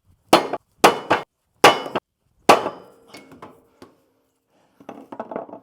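Four heavy hammer blows struck through a wooden block, driving the piston and rod assembly of a hydraulic excavator boom cylinder into its barrel. A few lighter knocks follow, then a quick run of light rattling clicks near the end.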